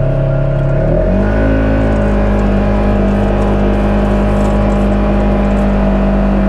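Polaris RZR side-by-side's engine pulling away, its revs rising about a second in and then holding steady.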